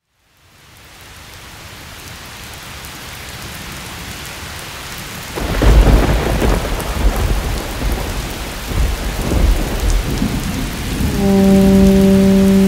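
Steady rain fading in, then a loud clap of thunder about five seconds in that rumbles on for several seconds. Near the end a steady low held tone comes in over the rain.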